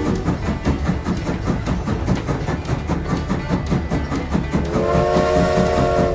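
Train running with an even rhythmic clatter, and a train horn sounding a held multi-tone chord for about a second and a half near the end.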